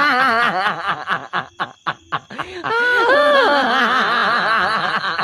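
A person laughing hard in quick, wavering bursts, breaking off briefly about a second and a half in, then laughing again.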